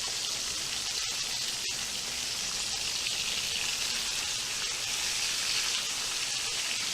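Whole chicken frying in hot oil: a steady, even sizzle.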